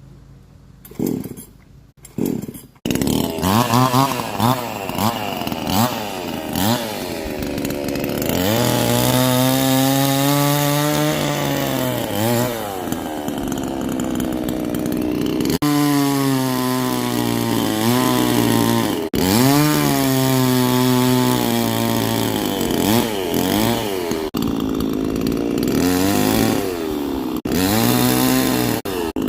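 Chainsaw engine comes on suddenly about three seconds in and runs loud, its pitch rising at full throttle and sagging again and again as the chain bogs down in the tree's wood.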